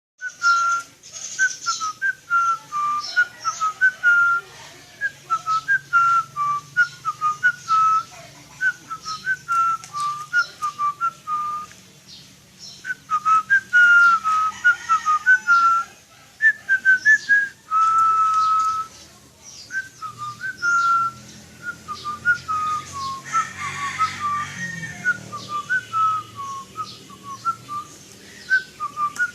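A long series of short whistled notes at much the same pitch, about one or two a second, with one longer held note about two-thirds of the way through and faint high chirps above.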